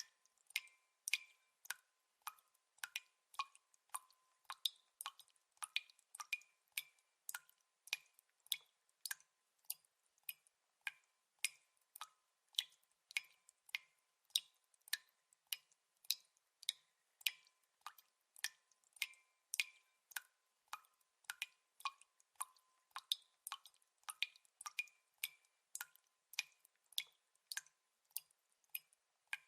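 Water drops dripping one at a time, each a sharp little plink with a brief ringing pitch, irregularly spaced at about one or two drops a second.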